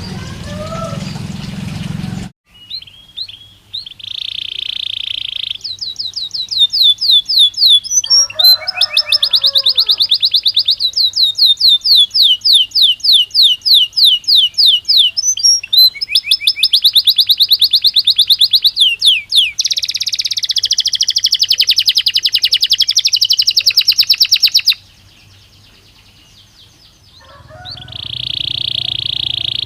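Belgian canary singing: fast trills of rapidly repeated high notes, one run straight after another, breaking off for a couple of seconds near the end before it starts again.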